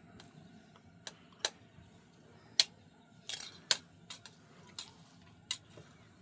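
Irregular sharp clinks and knocks from objects being handled, about eight over six seconds, with a short scrape a little past the middle.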